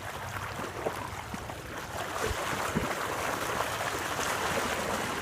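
Road bike wheels pushing through deep flood water: a steady splashing rush that grows louder about two seconds in, with a couple of low knocks.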